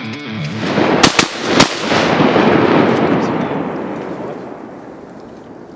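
Three quick shotgun shots about a second in, followed by a long rolling rumble that builds and then slowly fades.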